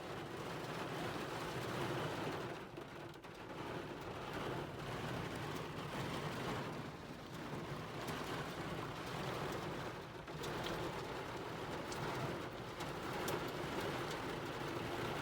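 Rain pelting a tent tarp, with wind making the noise swell and ease in gusts.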